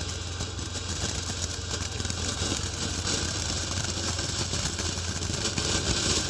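Ground fountain firework spraying with a steady hissing rush that stops near the end, over a low steady hum.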